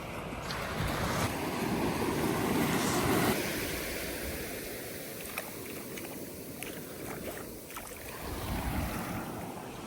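Surf washing up on a beach: an even rush of water that swells about a second in and again near the end, with wind on the microphone.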